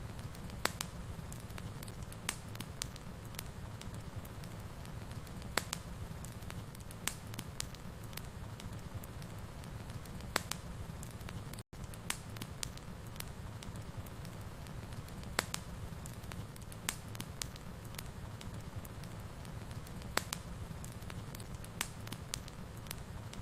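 Wood fire in a fireplace crackling, with irregular sharp pops and snaps over a steady low rumble. The sound cuts out for an instant about halfway through.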